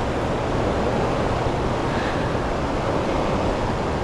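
Steady rush of fast, turbulent river water in the tailwater current below a hydroelectric dam, an even noise that does not change.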